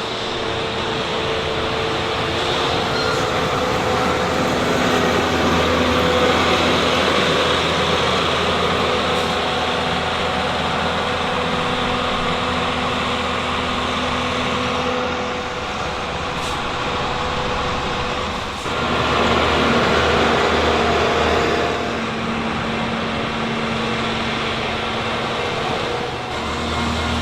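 A train passing: a steady, loud rumble that dips briefly twice in the later part.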